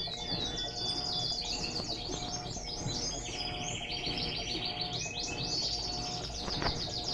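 Small birds chirping and trilling rapidly and almost without pause, several calls overlapping.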